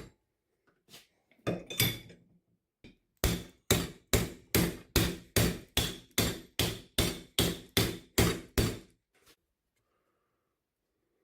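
Hammer blows driving a brass knife guard onto the steel tang for a tight friction fit: a couple of loose taps, then a steady run of about fourteen sharp, ringing strikes, roughly two and a half a second, that stops about two seconds before the end.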